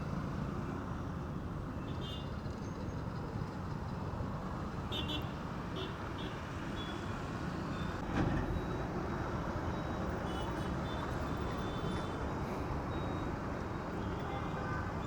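Steady background road traffic noise, with a brief louder swell about eight seconds in.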